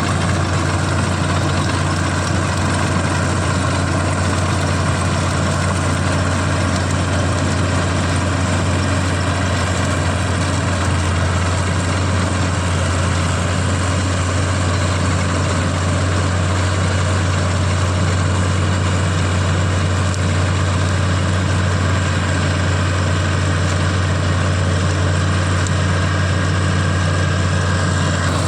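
CLAAS combine harvester's diesel engine running at a steady speed with a constant low hum, as it cuts paddy.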